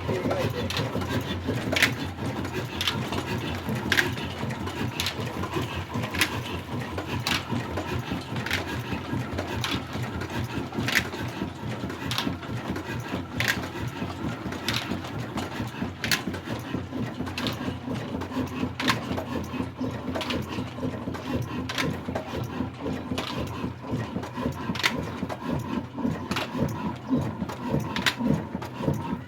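Large old single-cylinder 'desi' black diesel engine running steadily, with a sharp regular knock a little under twice a second over a continuous mechanical clatter.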